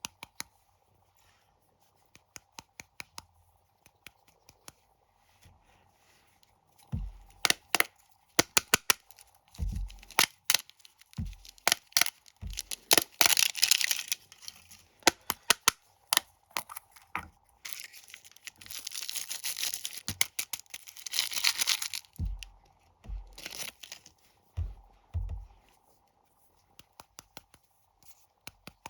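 Plastic snack wrappers being crinkled and torn open by hand: many sharp crackles, a longer tearing rustle in the middle, and a few soft thumps as the packets are handled.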